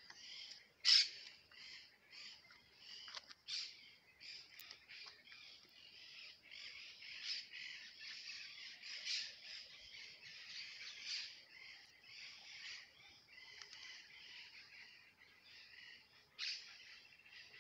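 A dense chorus of birds chirping and calling, with a sharp, louder squawk about a second in and another near the end.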